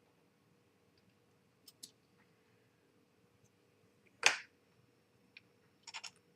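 Sparse small sharp clicks and taps of tiny screws, tweezers and model parts being handled during assembly, with one much louder clack about four seconds in and a quick run of clicks near the end.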